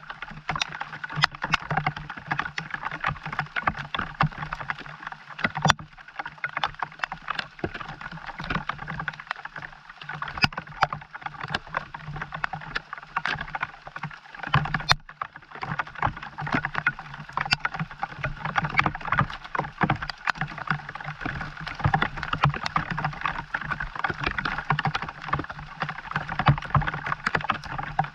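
Steady rain pattering, a dense run of small drop impacts with a low hum beneath, broken by two brief gaps.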